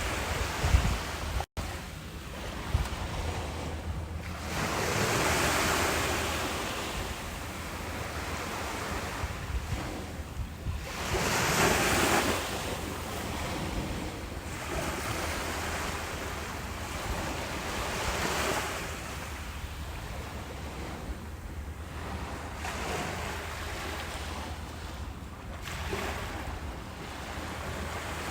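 Ocean waves breaking and washing up a beach, one surge every six or seven seconds, over a steady surf hiss. Low wind rumble on the microphone, gustier near the start.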